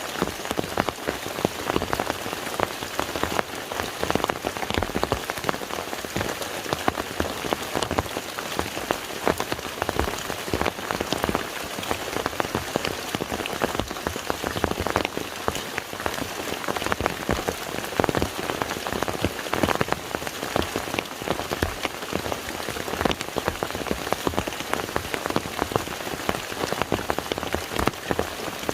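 Steady rain falling on a lake, a constant hiss thick with many sharp individual drop splashes.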